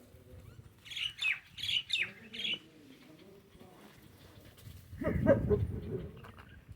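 Birds calling: a quick run of four sharp chirps that fall in pitch, then a louder, rougher burst of noise about five seconds in.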